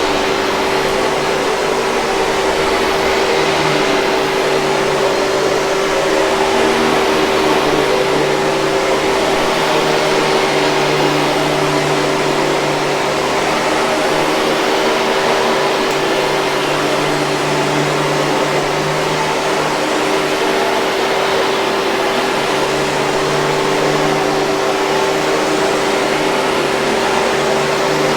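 Hoover 5000 Series canister vacuum running steadily: an even rush of air with a constant motor tone.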